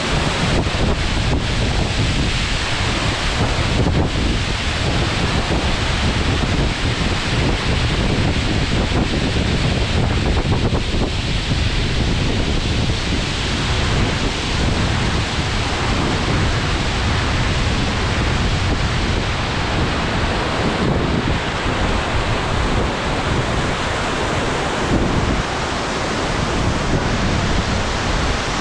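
Abe no Otaki, a straight-drop waterfall of about 45 m, rushing steadily and loudly, with deep rumbling in the low end.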